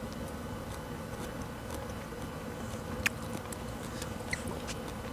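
Quiet room tone: a steady low hum, with a few faint, short clicks about three and four seconds in.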